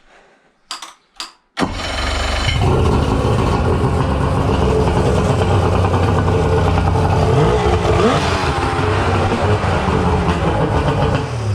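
Suzuki DT65 outboard motor, a three-cylinder two-stroke, starting on the key at the first attempt: two brief sounds, then it catches about a second and a half in and runs steadily.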